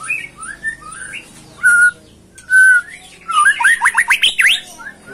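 A bird singing: quick chirps and short slurred notes, two brief held whistles about two seconds in, then a loud fast run of rising notes.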